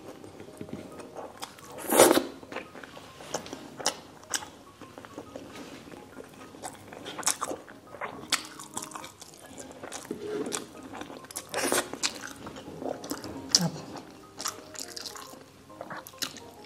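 Close-up eating sounds: wet chewing and lip smacking of rice and saucy pork asado, with irregular sharp mouth clicks, the loudest about two seconds in and again around twelve and thirteen and a half seconds in.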